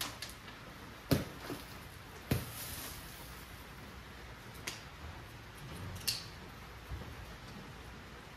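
About six separate sharp knocks and clicks, irregularly spaced, over a steady soft hiss; the loudest two come in the first two and a half seconds.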